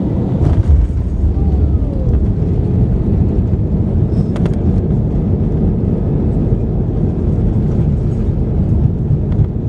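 Steady low rumble in the cabin of an Airbus A320-214 on landing, from its CFM56-5B engines and the rush of air and runway, with a brief thump about half a second in.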